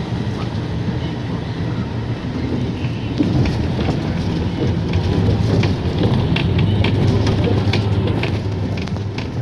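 Car driving over a wet, broken road: steady engine and tyre noise, with scattered knocks and splashes from about three seconds in.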